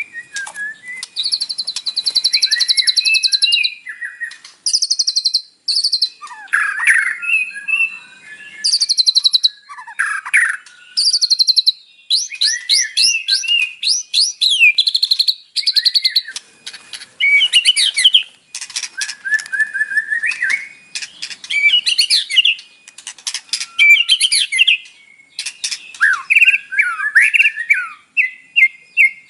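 White-rumped shama singing a long, varied song: fast buzzy trills alternate with lower, clear whistled phrases, one phrase after another with short pauses between.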